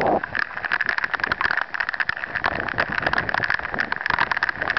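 Rain pattering hard on the camera and microphone: a dense, uneven crackle of drop hits over a steady hiss.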